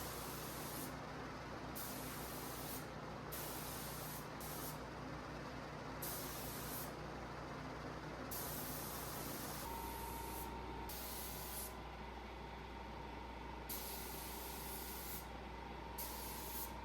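Compressed-air paint spray gun spraying clear coat onto car doors, hissing in repeated bursts of about a second as the trigger is pulled for each pass, with short gaps between.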